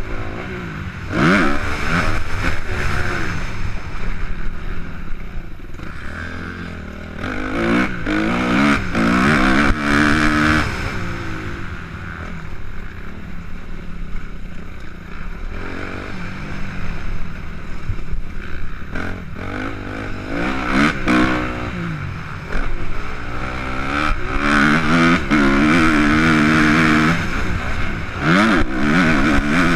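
Suzuki RM-Z 250's single-cylinder four-stroke engine revving up and dropping back again and again as the dirt bike is ridden round a motocross track. The revs climb hard several times, around two, eight to ten, twenty-one and twenty-five seconds in.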